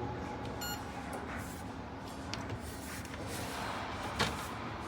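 Ninja Foodi XL Pro Air Oven running steadily as it preheats, with its convection fan giving a steady whir and a low hum. A short beep comes about a second in, and there are a couple of light clicks later.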